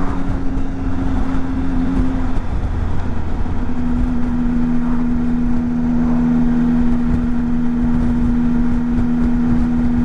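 Motorcycle engine running at road speed, heard from the rider's position with low wind rumble. About two seconds in the engine note eases off, and it picks up again and holds steady about a second and a half later.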